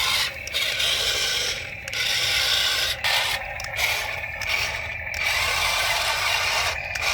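Toy RC excavator's small electric motors and plastic gearboxes whirring and grinding, running in short spurts that start and stop several times.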